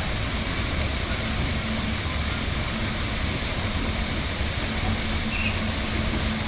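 Water fountain jets splashing and falling into the basin: a steady, even rush of water, with a faint hum that comes and goes.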